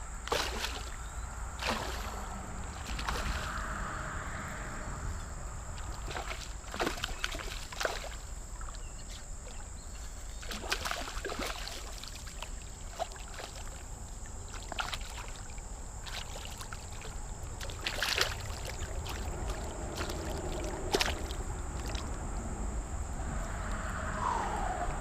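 Shallow river water sloshing and splashing, with scattered sharp clicks and knocks, while a hooked smallmouth bass is brought in. A steady high-pitched tone runs underneath.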